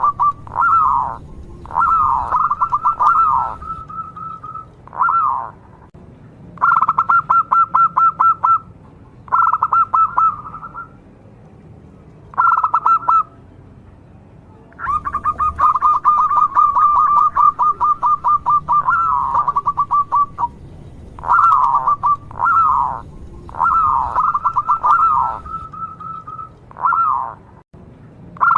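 Zebra dove (perkutut) cooing: repeated phrases of rapid pulsing coos near one pitch, some ending in falling notes, in bouts of one to two seconds with short gaps. About fifteen seconds in comes one long pulsing phrase lasting some five seconds.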